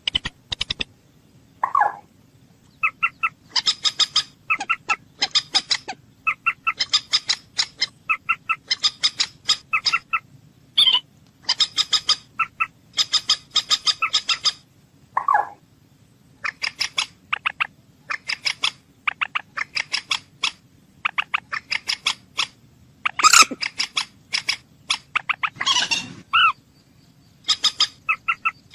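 Common moorhen calling: rapid trains of short, clicking notes in quick bursts, broken now and then by a longer, lower croak.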